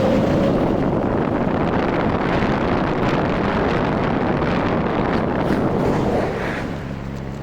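Rusi RFI 175 motorcycle on the move: engine and road noise under heavy wind rush on the microphone, easing off a little about six seconds in.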